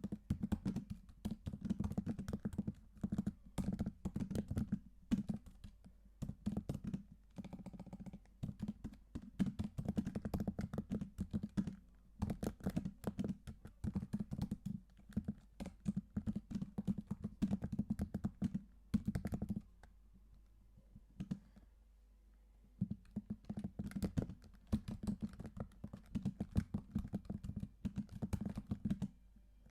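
Typing on a computer keyboard: quick runs of key clicks with short breaks, and a pause of a few seconds about two-thirds of the way through.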